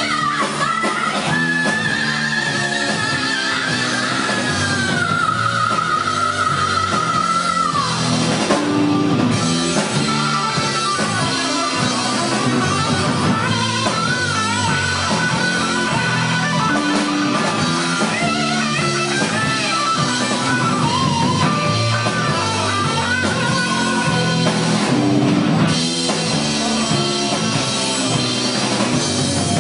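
Rock band playing live, a guitar carrying the melody over bass and drums. A long held, slightly bending lead note runs for the first several seconds, then gives way to shorter melodic phrases.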